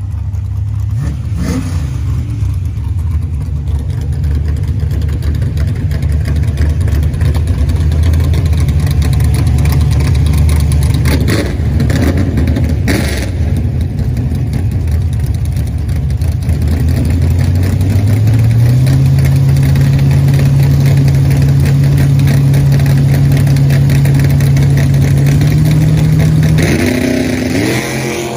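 Cammed, carbureted 5.3 LS V8 drag car idling with a low rumble. About two-thirds of the way through it is brought up to a higher, steady rpm and held there. Near the end it launches hard, its pitch climbing quickly as it pulls away and fades.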